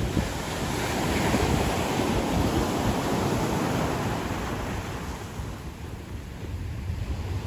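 Ocean waves breaking and washing on a beach, one wave's wash swelling in the first seconds and fading away about halfway through, with wind buffeting the microphone.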